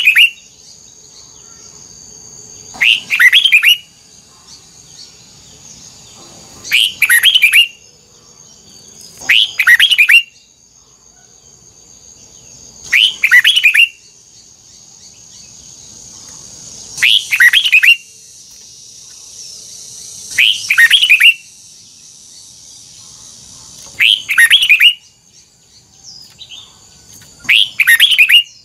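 Red-whiskered bulbul singing: short loud song phrases of about a second each, repeated eight times roughly every three to four seconds.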